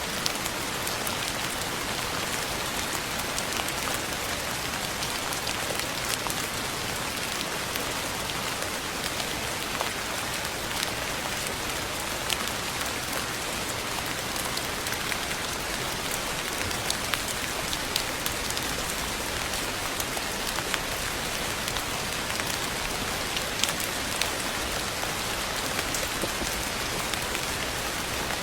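Steady rain falling on a surface: an even hiss of rainfall with scattered individual drops ticking through it.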